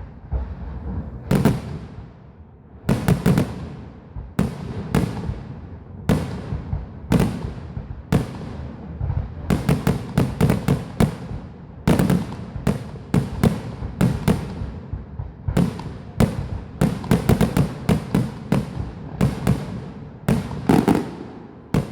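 Fireworks going off: a long run of sharp bangs, some single and some in rapid clusters of several, each trailing off into a low rumble.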